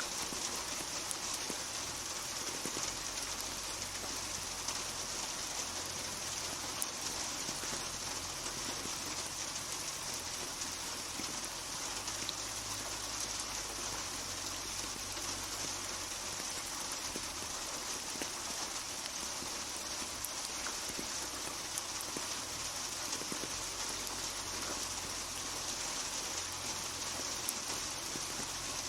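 Steady rain falling, an even hiss of drops on a surface with scattered individual drop ticks.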